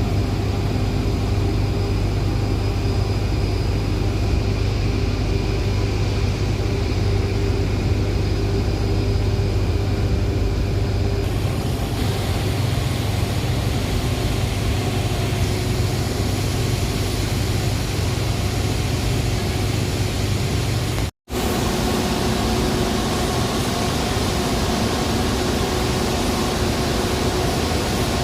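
Steady, loud drone of power plant machinery: a strong low hum with several steady tones over a wash of mechanical noise. It turns brighter and hissier a little before the middle, and breaks off for an instant about three quarters of the way through before resuming.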